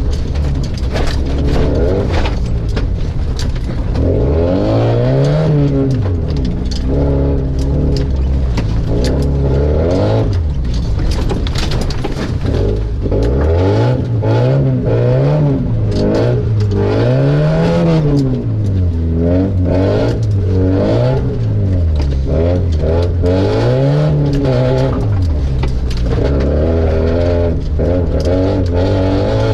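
Opel Frontera engine through a straight-pipe exhaust, revving up and dropping back again and again as the car is driven hard. Scattered sharp clicks and knocks sound over the engine.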